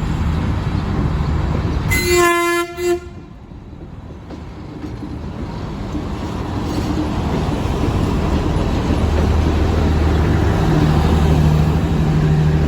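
Diesel locomotive horn sounding one short blast, then the locomotive's engine and the train rumbling steadily, growing louder as the train pulls out of the station.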